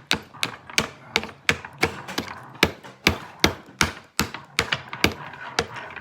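Hammer driving a nail into wood with a quick, steady run of sharp strikes, about three a second.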